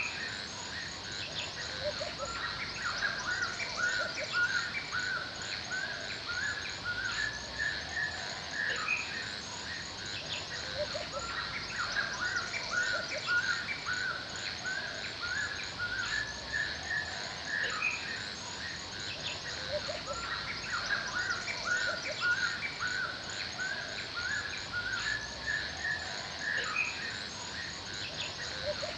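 Forest ambience: many birds chirping and calling at once, with short repeated chirps throughout. A fast, steady, high-pitched pulsing runs over a faint noisy background.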